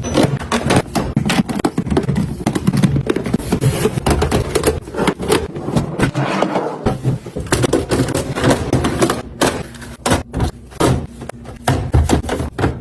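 Food packages and containers being handled and set down: quick runs of clicks, taps and scraping rustles.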